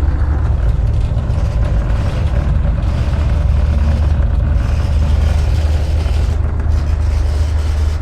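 Steady low drone of the GP38-2 locomotive's EMD 16-cylinder 645 two-stroke diesel, heard inside the cab while the train is under way.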